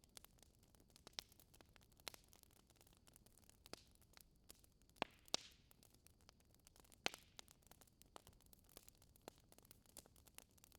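Wood fire crackling in a fireplace: faint, irregular crackles with a few sharper pops, the loudest about five and seven seconds in.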